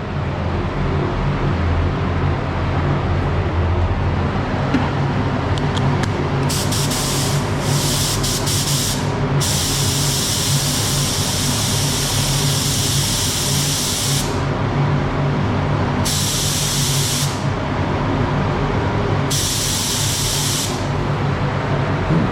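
Paint spray gun spraying primer in repeated bursts of air hiss: a few short blasts, then one long pass of about four seconds, then two shorter ones. The gun is dirty and spraying poorly, which the owner blames on it needing a full strip-down and clean. A steady low mechanical hum runs underneath.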